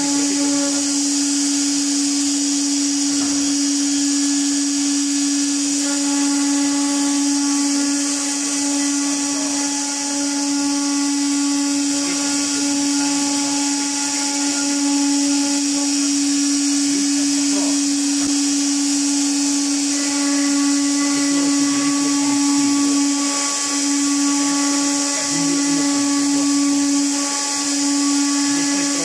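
Electric woodworking machine running steadily: a constant motor hum with a high hiss over it, holding the same pitch throughout.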